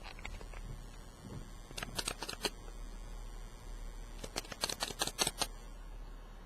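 Two bursts of rapid sharp clicks, a few about two seconds in and a denser run around four to five seconds in, over a faint steady low hum.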